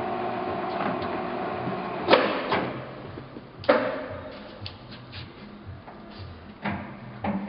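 Victor 2040 engine lathe running with a steady hum that dies away about two seconds in. Several sharp metal clunks follow, spread over the next five seconds.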